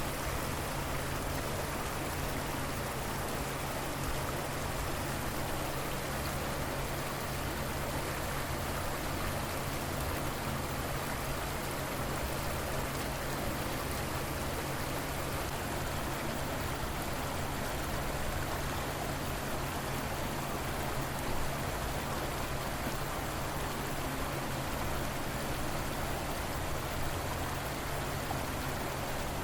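River water flowing steadily in an even, unbroken rush.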